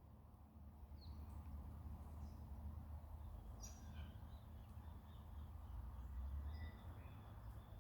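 Faint, scattered short high calls of swift parrots, a few chirps a couple of seconds apart, over a steady low rumble.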